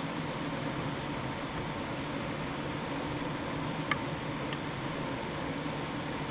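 Steady mechanical hum and hiss with a faint light click about four seconds in.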